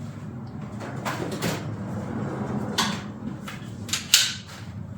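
Hands and pliers working at a stuck minibike fuel cap: scattered clicks and knocks, the sharpest about four seconds in, over a steady low hum.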